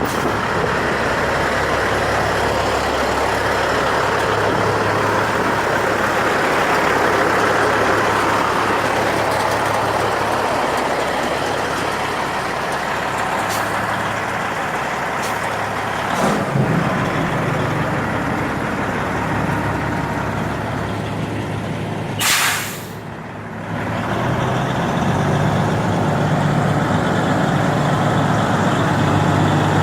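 2004 Peterbilt truck running with a steady wash of noise, a knock about halfway through, then a short sharp air-brake hiss about three-quarters of the way in. After the hiss the diesel engine idles steadily.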